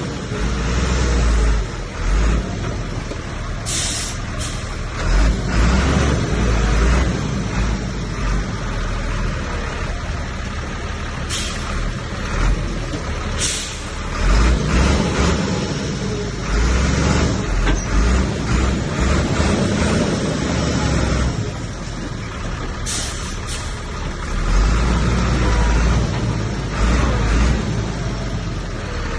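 Diesel engine of heavy earthmoving machinery working under changing load, its low rumble swelling and easing repeatedly. Short sharp high-pitched bursts cut in about four times.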